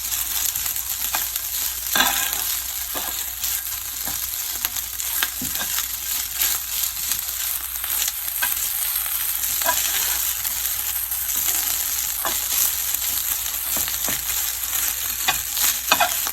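Fried rice sizzling in a hot pan while it is stirred and turned over, with a spatula scraping and tapping the pan now and then.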